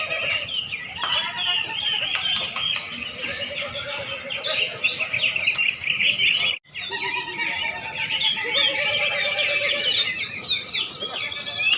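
Many caged contest songbirds singing at once: a dense, overlapping chorus of high chirps, trills and whistles. The sound cuts out for a split second just past halfway, then the chorus carries on.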